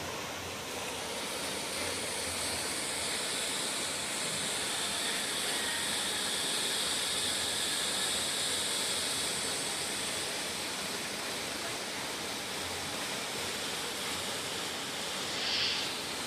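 Steady rush of water falling and flowing over rock, like a small waterfall or cascade.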